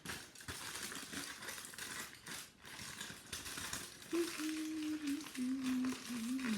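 Aluminium foil crinkling and crackling as it is folded and creased by hand. From about four seconds in, a person hums a few held notes that step down in pitch.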